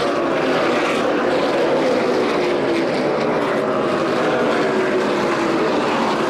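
Race car engines running at speed on the track, a loud steady drone whose pitch slowly falls over several seconds.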